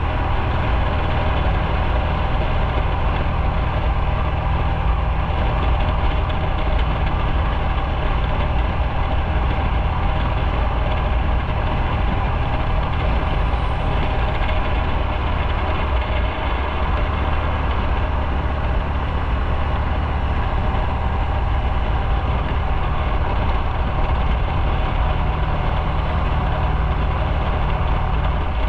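Motorcycle engine running steadily at a low, even pitch, with no revving.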